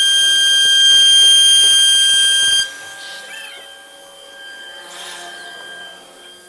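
CNC router running with a loud, steady, high-pitched whine that stops abruptly about two and a half seconds in, leaving a fainter whine with a few brief pitch sweeps.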